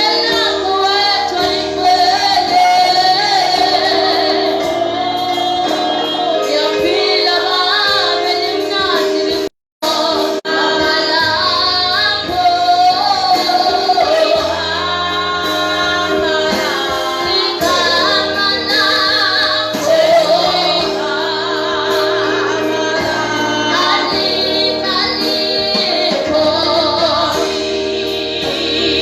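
Gospel music: female voices singing with vibrato over steady held chords. The audio drops out briefly about a third of the way through.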